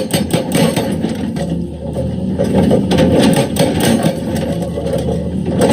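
Excavator working rock: its diesel engine running under load, with a fast run of sharp knocks, about six a second, in the first second that fades out and starts again near the end.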